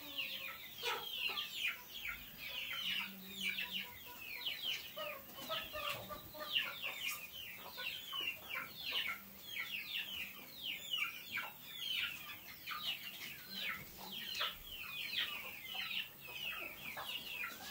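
Birds chirping without a break: many short falling calls, several a second, overlapping one another.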